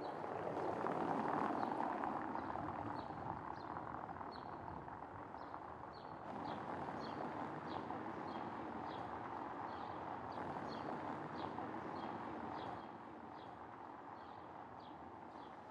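Small birds chirping in short high notes, about two a second, over a steady rushing outdoor background.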